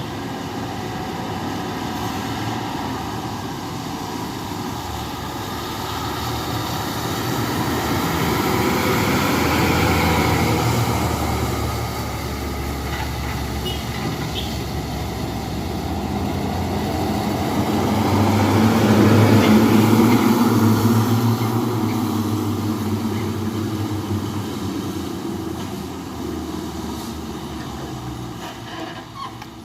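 Heavy dump trucks driving past one after another, engine and road noise swelling as each goes by, loudest about a third of the way in and again about two-thirds in, fading near the end.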